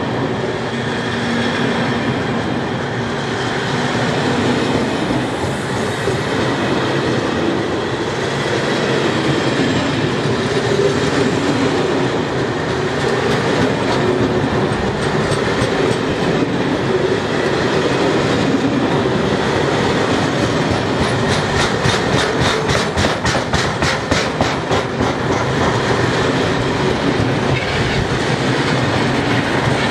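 Fully loaded log wagons of a freight train passing close by at speed: a steady, loud rumble of steel wheels on the rails. About two thirds of the way in, a run of rapid, regular wheel clicks comes through.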